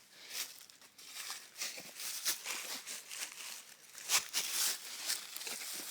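Irregular crunching and rustling of footsteps in dry leaf litter and brush on a steep trail, with a louder crunch about four seconds in.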